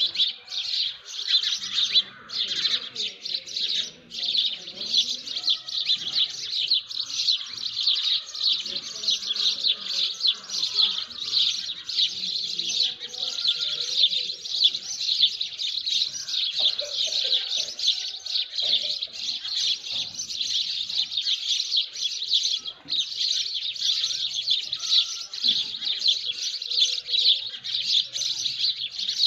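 Many small birds chirping densely and without pause in a morning chorus, with fainter, lower calls underneath.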